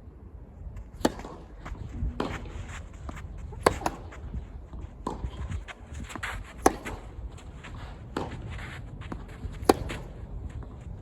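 Tennis rally: a ball struck back and forth by rackets, one sharp pop about every second and a half, louder and fainter strokes alternating.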